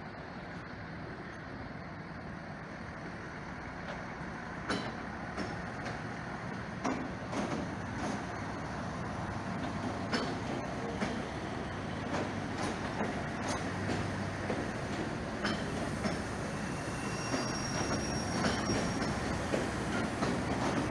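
Passenger train running on the rails, its rumble growing steadily louder as it approaches, with wheels clicking over rail joints from about five seconds in. A brief thin high whine comes near the end.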